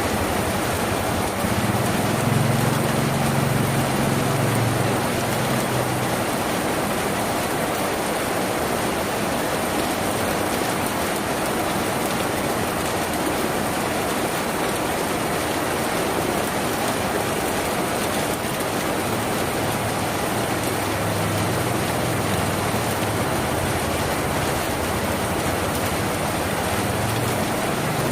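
Steady heavy rain on a tin roof, a dense even patter. A low rumble swells in the first few seconds and again near the end.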